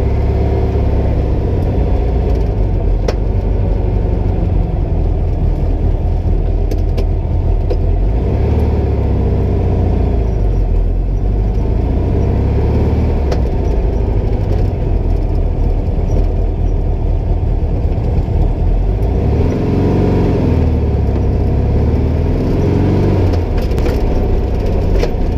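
Turbocharged 1956 Volkswagen Beetle engine running under way, heard from inside the cabin. Its pitch rises and falls a couple of times as the revs change.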